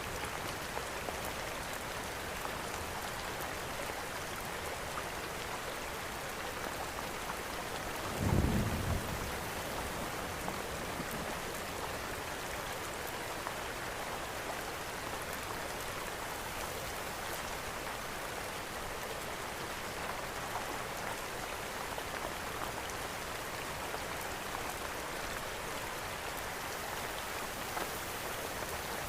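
Steady rain hissing, mixed with faint crackling from a fireplace. A short low rumble comes about eight seconds in.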